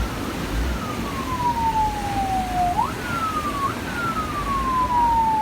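A wailing siren whose pitch slides slowly down, jumps quickly back up twice in the middle, and slides down again, over a steady rushing noise.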